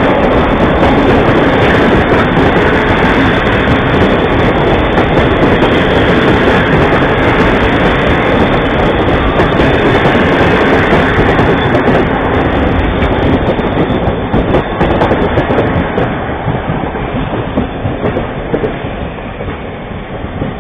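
Carriages of a locomotive-hauled passenger train rolling past close by, a loud steady rumble of wheels on rails with many irregular clicks, fading over the last few seconds as the train moves away.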